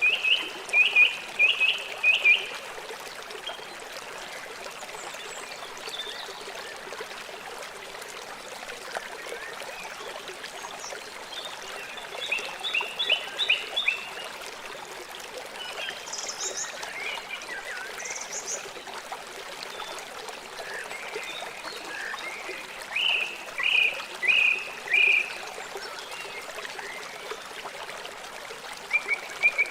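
River water flowing and trickling steadily, with birds calling over it in short runs of quick repeated chirps, several times.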